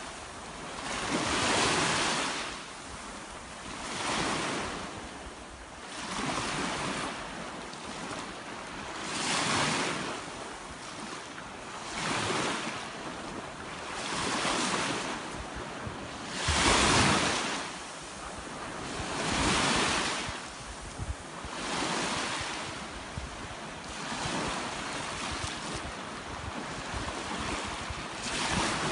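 Sea waves breaking on the shore of the Caspian Sea, a surge of surf rising and falling about every two to three seconds.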